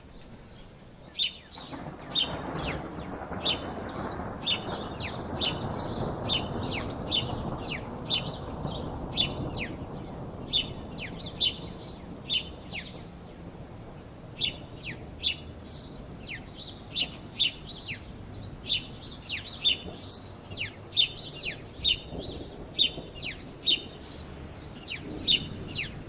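Many small birds chirping, short falling chirps several a second, overlapping. Under them is a steady rush of background noise that starts about a second in and thins out around halfway.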